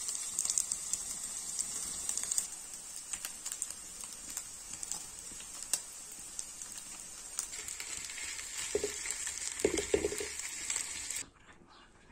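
Beef mince frying in oil in a wide pan over a wood fire: a steady sizzle with scattered crackles and pops, and a few short duller sounds near the end, cutting off suddenly about eleven seconds in.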